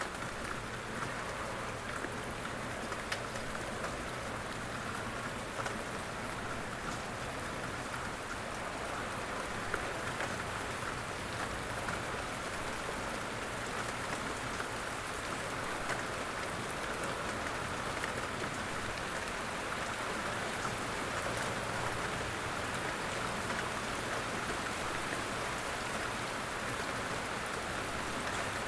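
Steady rain falling, with scattered individual drop ticks.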